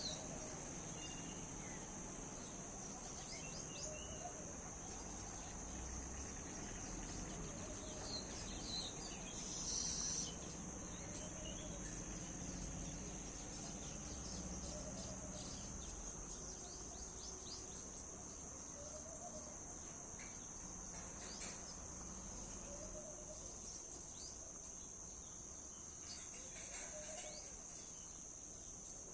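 Steady high-pitched drone of crickets and other insects, with faint scattered bird chirps and soft low calls every couple of seconds. A brief louder noise about ten seconds in.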